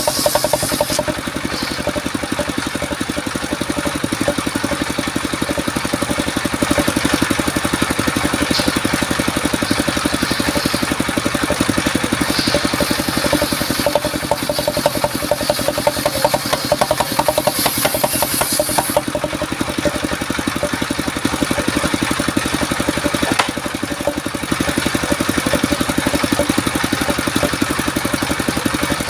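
Engine of a mobile circular sawmill running steadily with an even pulse, its high hiss shifting a few times as the sawing load changes.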